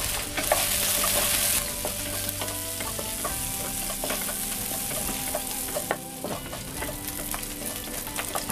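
Dried shrimp sizzling in hot oil in a nonstick wok, stirred with a wooden spatula that scrapes and taps against the pan now and then. The sizzle is loudest from about half a second to a second and a half in.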